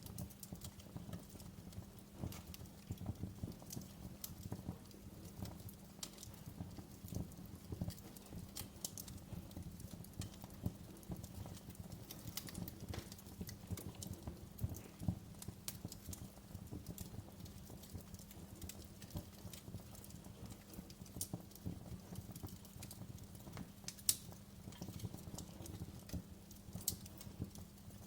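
Wood fire crackling in a fireplace: irregular sharp pops and snaps over a low steady rumble, with a few louder pops about halfway through and near the end.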